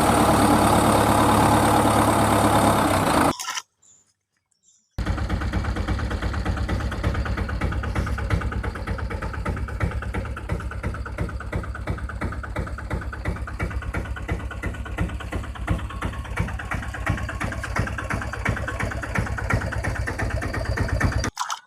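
Engine running steadily, like an idling tractor. It cuts off abruptly about three and a half seconds in. After a second and a half of silence, a steady idle with a fast, even pulse and a low hum runs on until it cuts off again near the end.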